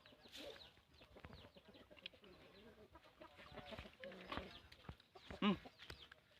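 Short clucking animal calls with soft clicks between them; one louder call with a falling pitch comes about five and a half seconds in.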